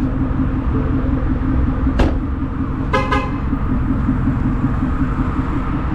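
Shelby GT350's flat-plane-crank V8 running steadily while driving, with a sharp click about two seconds in and a short double car-horn toot about a second later.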